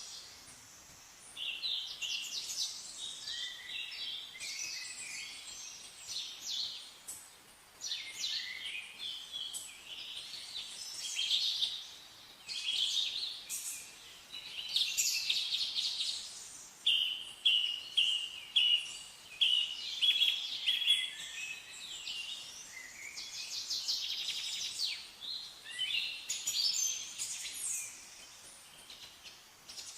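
Several songbirds chirping and singing, their calls overlapping, with a quick run of short repeated notes in the middle.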